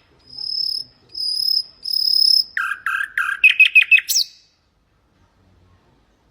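Common nightingale singing one phrase: four long, pure high whistles growing louder, then a fast run of about ten repeated notes, and a final sharp sweep before it stops.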